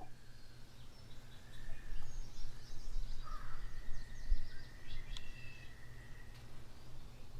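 Outdoor ambience: scattered bird calls, with one held high note in the middle, over a steady low rumble.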